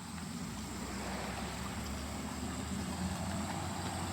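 Steady low rumble of a motor vehicle's engine, with a faint even rushing noise over it that grows slightly louder.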